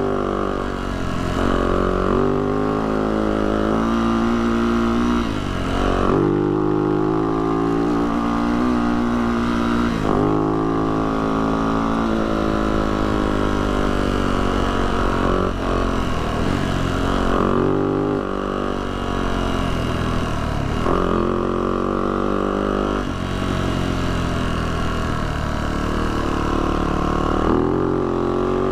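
Yamaha YZ450F's single-cylinder four-stroke engine running under way on a dirt trail, its pitch rising and falling again and again as the throttle opens and closes and the gears change.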